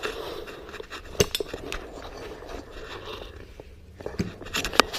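Scraping and scattered light clicks of hands handling tools and parts at a motorcycle engine, with a few sharper clicks about a second in and near the end.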